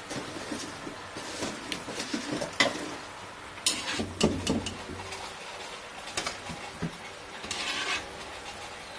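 Kitchen handling sounds: irregular knocks and clinks of utensils and dishes, with a brief scraping or stirring noise near the end.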